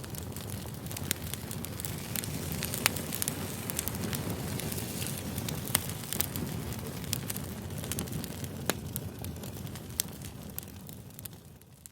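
Campfire crackling: a steady low rush of burning with sharp pops and snaps scattered irregularly throughout, fading out near the end.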